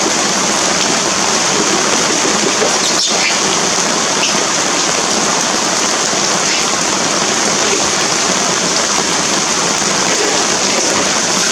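Steady heavy rain falling, a dense even hiss with a single sharp click about three seconds in.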